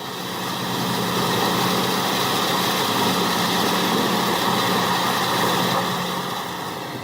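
A heavy machine's engine running steadily under a dense mechanical noise. It grows louder over the first second and eases off a little near the end.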